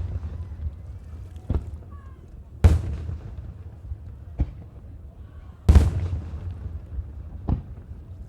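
Fireworks display: aerial shells bursting with loud booms that rumble away, two big bursts about three seconds apart, each followed about two seconds later by a smaller, sharper bang.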